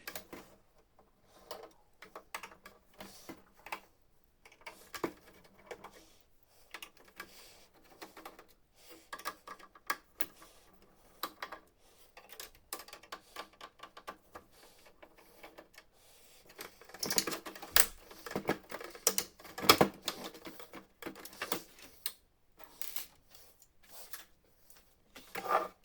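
Screws being undone with a hand screwdriver and plastic parts of a Canon MF4410 printer's housing being handled: irregular clicks and taps, with a louder run of clicking and rattling a little past the middle.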